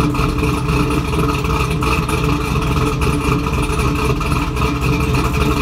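Cammed LS V8 (an iron-block 5.3 bored to 5.7) in a 2002 Camaro SS idling steadily through long-tube headers and a full SLP exhaust. The idle has been tuned up to about 750–800 rpm.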